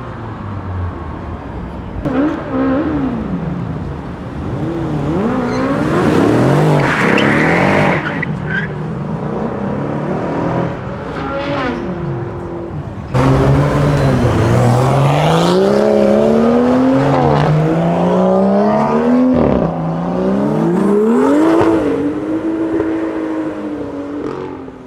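Performance car engines revving hard as cars accelerate away. Pitch climbs and drops at each gear change, with a louder run of upshifts in the second half. There is a short burst of tyre squeal about seven seconds in.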